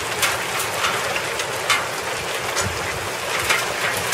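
Hailstorm: a steady hiss of falling hail and rain, with many irregular sharp ticks of hailstones striking hard surfaces.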